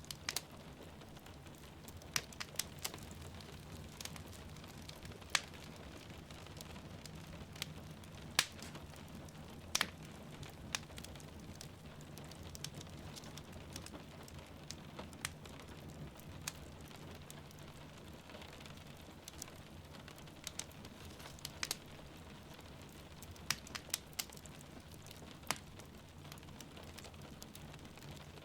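Wood fire crackling in a fireplace, with sharp irregular pops every second or two, over a steady low rumble and the soft even hiss of rain.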